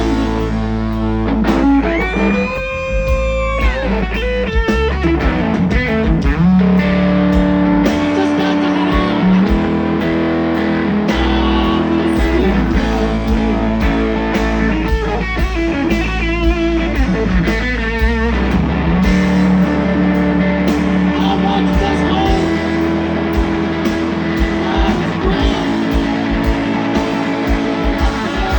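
Live electric guitar playing a slow solo of long held notes, bent in pitch and shaken with vibrato, over bass guitar and drums.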